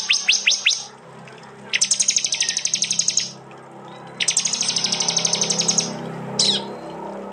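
Prenjak (prinia) giving its sharp, rapid 'tembakan' call: trains of high, quickly repeated downward-sweeping notes. A short train at the start gives way to two longer, faster trains of about a second and a half each, then a single note near the end.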